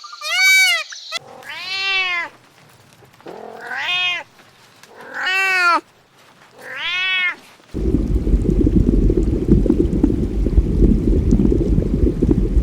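A domestic cat meowing four times, each meow about a second long and rising then falling in pitch. About eight seconds in, a steady low rumble takes over.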